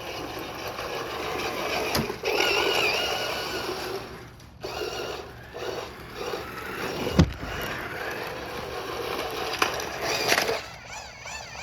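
Electric RC cars driving and ramming each other: motor whine rising and falling in pitch and wheels rolling on a hard floor, with a few sharp collision knocks, the loudest about seven seconds in.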